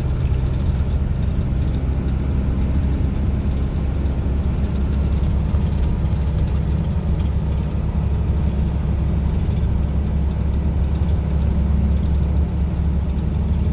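Truck driving at a steady speed: a constant low engine drone with road noise, unchanging throughout.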